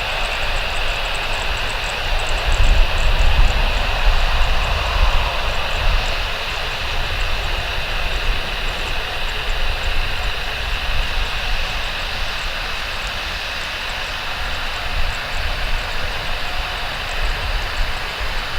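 Jet airliner engines running steadily at low power, a continuous whine over a low rumble that swells a few seconds in.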